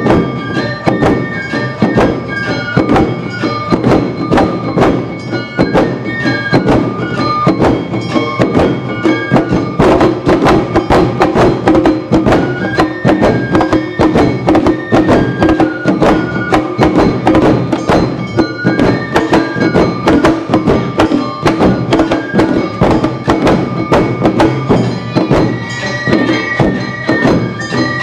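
Live Awa Odori festival music: a bamboo flute melody over fast, continuous drum and hand-gong strikes, with steady ringing tones from the gongs.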